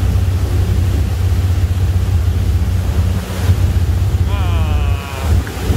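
Steady low rumble of wind on the microphone and a ferry's engine out on open sea, with the wash of water. A voice comes in briefly about two thirds of the way through.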